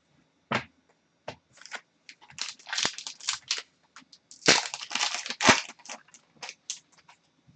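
Hockey trading cards being handled and flipped through: a run of irregular sharp clicks and short rustles of card stock, thickest in two clusters in the middle.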